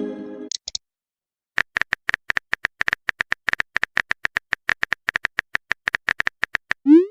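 Phone-keyboard typing sound effect: a run of quick, even clicks lasting about five seconds. A short pitched tone fades out at the start, and a brief rising swoop sounds near the end, like a message-sent effect.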